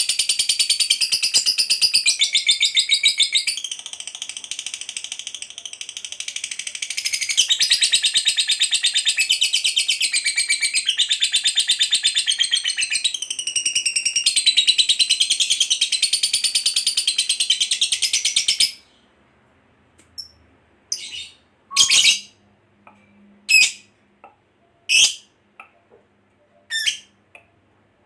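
Lovebird's long ngekek chatter: a rapid, continuous, high-pitched trill that cuts off suddenly after about eighteen seconds. After that come short separate chirps, one every second or two.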